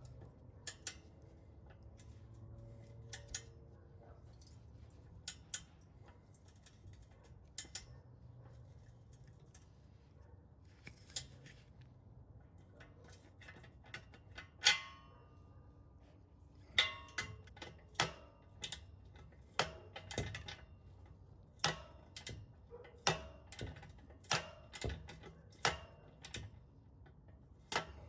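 Hand tools working metal exhaust bolts. There are scattered sharp clicks at first and one louder metal clank with a short ring about halfway. In the second half a run of sharp clicks comes roughly once a second, typical of a socket wrench or click-type torque wrench being worked.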